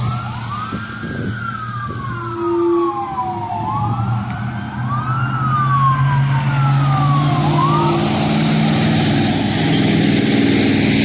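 Emergency vehicle siren on a wail, its pitch sweeping up and down, with two sweeps overlapping at times; it stops about eight seconds in. A heavy vehicle's engine rumbles under it and grows louder in the second half.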